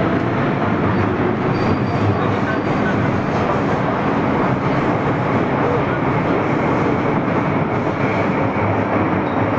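MTR M-Train (Metro-Cammell electric multiple unit) running steadily on the metro line, a continuous rumble of wheels, track and motors.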